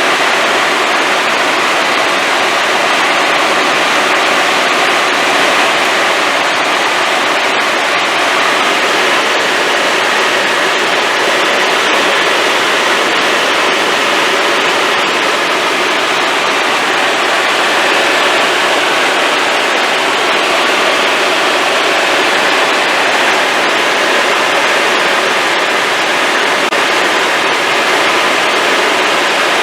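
Helicopter in flight heard from inside the cabin: a loud, steady, even rushing of engine and rotor noise that does not change.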